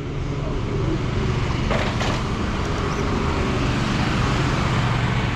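Riding a Bird electric scooter: steady rolling tyre and road noise with wind on the microphone, and a short rustling burst about two seconds in.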